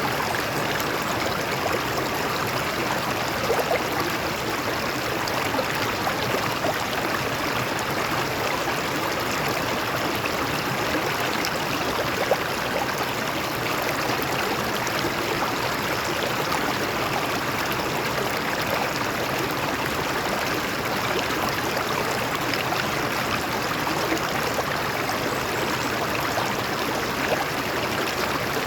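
Water flowing and splashing over rocks in a stream: a steady rushing with small gurgles and splashes scattered through it.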